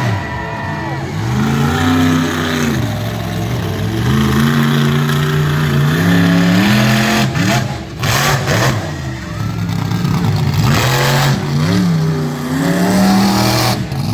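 Monster truck engine revving hard, its pitch climbing and dropping several times as the throttle is worked, with a couple of short bursts of noise about eight and eleven seconds in.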